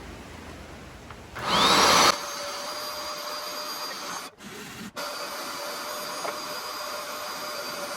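Carpet and upholstery cleaner running steadily, with a loud rushing surge and a rising whine about a second and a half in, and two brief dropouts near the middle.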